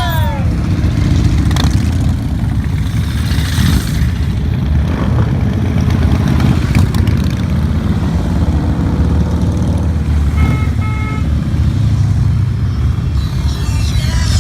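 Motorcycle engines rumbling steadily as a pack of bikes rides past. Two short beeps sound about ten and a half seconds in.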